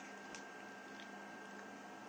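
Quail egg incubator running: a faint steady hum with a thin high whine, and two faint ticks, about a third of a second and a second in.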